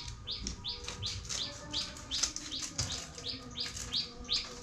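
A small bird chirping over and over in an even rhythm, about three short high chirps a second. A few crisp crinkles come from a foil spice packet being torn open and shaken over a steel bowl.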